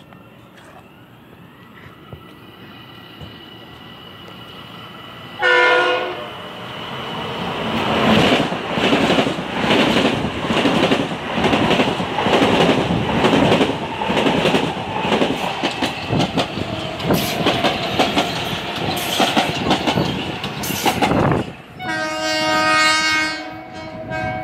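A Metro-North electric commuter train passing a station platform at speed. Its horn gives a short blast as it nears, then the cars rush by for about fourteen seconds with wheels clattering over the rail joints. A second, longer horn blast sounds near the end.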